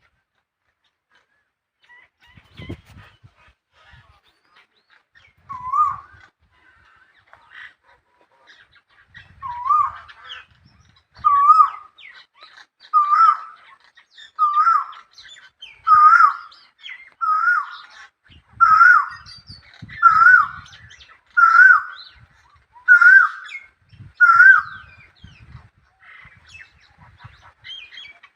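A bird calling over and over: about fourteen short, identical calls roughly one and a half seconds apart, each rising and dipping in pitch, growing louder over the first few.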